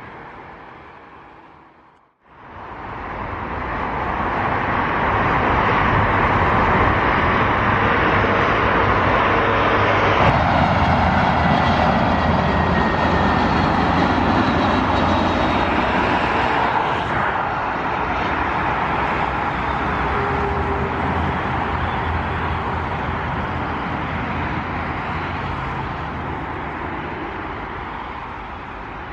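Jet airliner's engines going past: the loud rush of engine noise builds over a few seconds after a brief cut, holds steady, then slowly fades, with a faint whine gliding through it.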